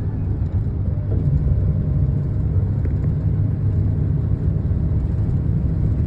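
Steady low rumble, like a road vehicle running close by.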